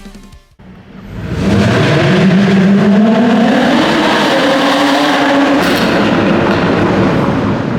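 Jaguar F-Type's supercharged 3.0-litre V6 accelerating hard through its stock exhaust. The note comes in about a second in, climbs in pitch, then holds.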